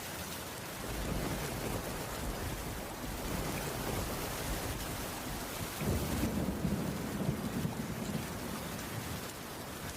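Heavy rain falling steadily on a cabin's wooden roof, with low rolling thunder that swells louder from about six seconds in.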